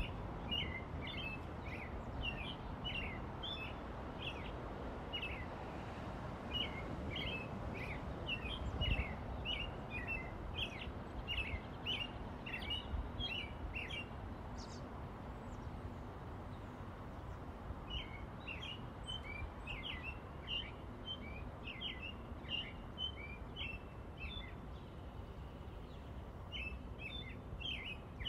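Forest ambience: birds chirping in quick runs of short notes, with a pause of a few seconds about halfway through, over a steady low background rush.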